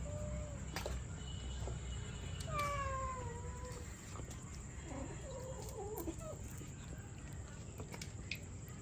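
Cats meowing: a short call at the start, a long falling meow about two and a half seconds in, then a wavering, yowling call around five to six seconds in.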